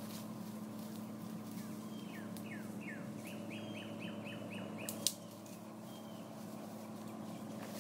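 A songbird sings a run of about a dozen short, down-slurred whistled notes, coming faster toward the end, with a single sharp click just after it stops.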